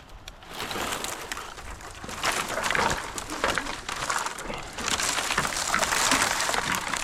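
Rustling, scraping and clicking of branches, bark and climbing gear as a tree climber moves about in the tree, louder in the second half.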